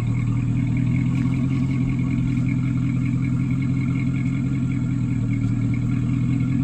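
Dodge Charger Daytona's 5.7-litre HEMI V8 idling steadily with a deep, even note.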